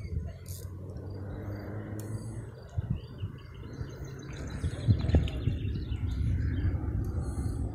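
Small birds chirping over a steady low rumble, with a couple of brief louder knocks about five seconds in.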